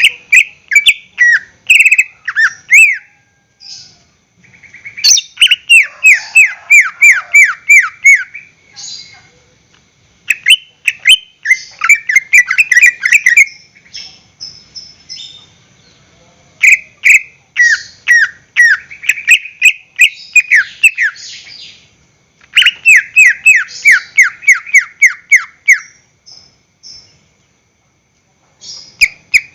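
Green leafbird (cucak ijo) singing loudly in bouts of rapid, down-slurred whistled notes, about three or four a second. Each bout lasts a few seconds and short pauses separate them.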